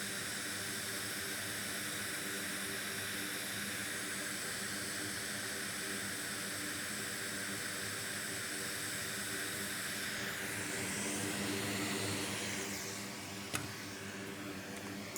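Hot air rework station blowing a steady hiss of hot air onto a connector, melting the solder under its pins and anchor pads. The hiss shifts and swells a little late on, then a single sharp click near the end, after which it is slightly quieter.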